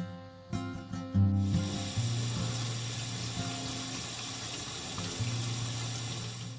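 Water running steadily, as from a tap or a water-jug spout, starting about a second in, over background music with a low bass line.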